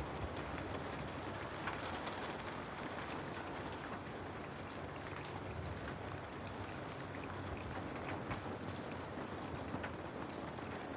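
Steady rain falling, with scattered individual drops ticking against a window pane.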